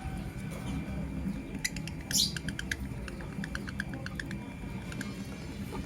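Lovebirds making a quick series of short chirps and clicks, starting about a second and a half in, with one louder, shriller chirp near two seconds, over a steady low hum.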